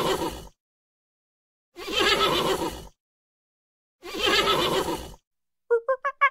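Horse whinnying: the same second-long call heard three times, about two seconds apart, with dead silence between. Near the end a fast run of short pitched calls begins, about five a second.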